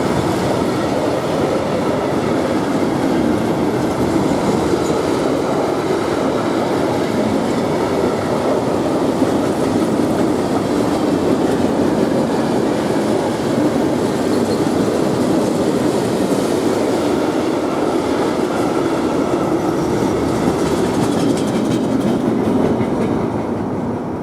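Container freight train rolling past, with the steady rumble and clatter of its wagons on the rails; it eases off slightly near the end.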